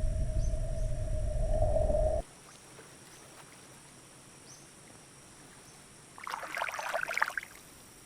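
A low rumble under a steady hum cuts off abruptly about two seconds in. It leaves faint ambience with thin high steady tones, and a brief crackling burst comes a little past six seconds.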